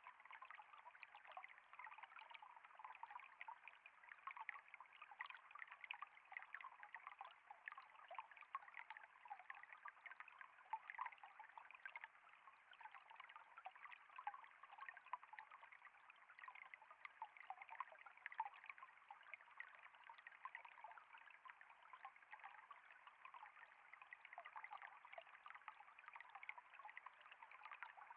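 Faint running water trickling steadily, with many small irregular splashes and drips.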